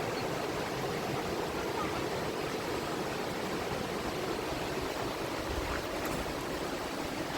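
Fast-flowing river water rushing with a steady, even noise.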